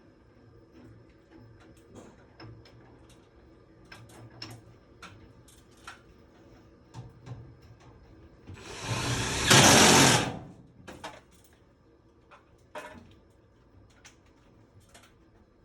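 Scattered light clicks and knocks of tools being handled, and about nine seconds in a loud burst of a small motor-driven power tool lasting about two seconds.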